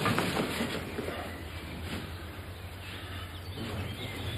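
Faint bird chirps over quiet room ambience with a low steady hum.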